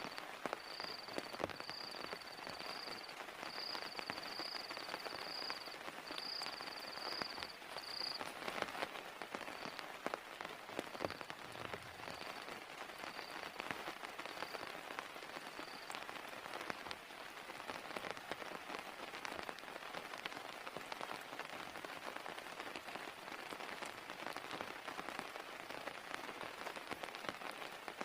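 Heavy rain falling steadily, with many single drops ticking close by. During the first half a high, thin chirping repeats at short intervals, then fades out.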